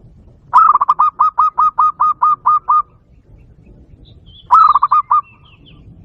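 Zebra dove call: a fast string of about a dozen short, clipped cooing notes lasting about two seconds, then a shorter string of a few notes about four and a half seconds in.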